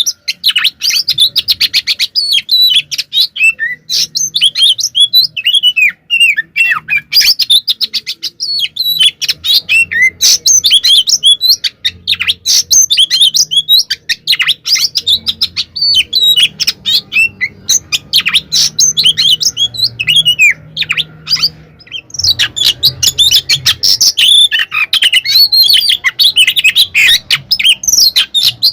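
Oriental magpie-robin (kacer) singing loudly in a fast, almost unbroken run of chirps, whistles and trills, with a short break about three quarters of the way through. This is its aggressive fighting song, the territorial challenge that provokes other magpie-robins to answer.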